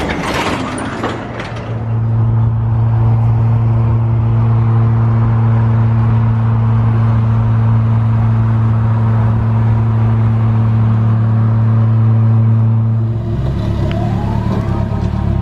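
Car engine running at a steady speed with a constant deep hum, then the sound changes to a lower, rougher note about 13 seconds in.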